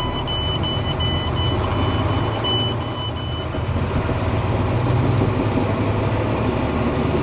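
Old Mack truck's diesel engine running just after starting, steady and low, with a rapid warning beep from the dash that stops about three and a half seconds in.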